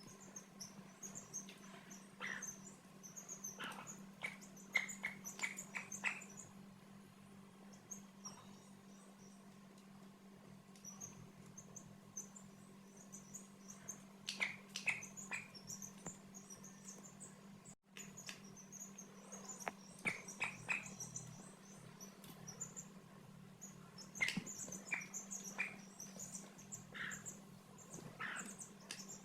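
Young chicks peeping: a constant chatter of short, very high peeps, with louder clusters of short sharp calls every few seconds, over a steady low hum.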